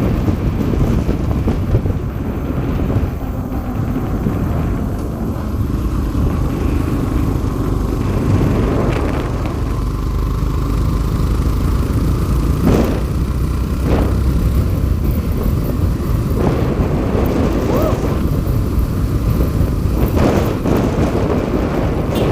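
A motor vehicle running on the road with steady rumble and wind buffeting on the microphone; a few brief swells rise and fall, around 13, 14 and 20 seconds in.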